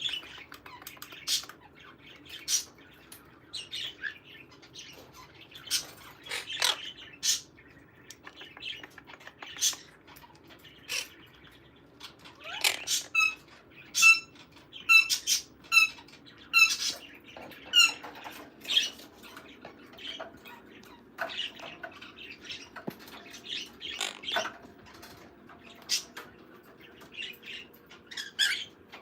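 Pet parrot calling: scattered short squawks and chirps, with a quick run of evenly repeated pitched notes around the middle.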